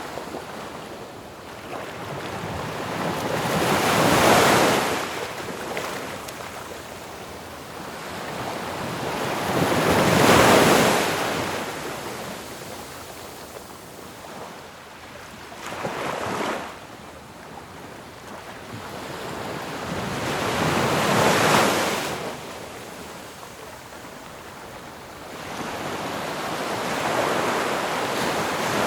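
Ocean waves breaking on a shore, each one swelling to a rush of surf and then washing back, about one every five to six seconds, five times.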